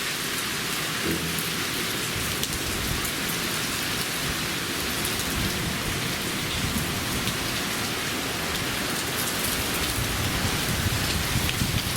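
Heavy rain pouring steadily, a dense even hiss of rain falling on surfaces, in a sudden typhoon-driven downpour.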